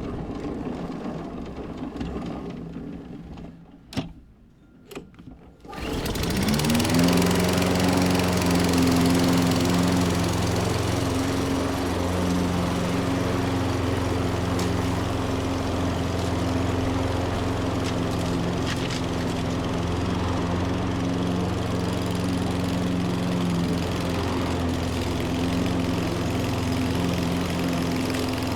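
Toro Recycler lawn mower's single-cylinder Kohler engine catching about six seconds in, rising in pitch and settling into steady running, after a couple of knocks. The engine starts on one pull.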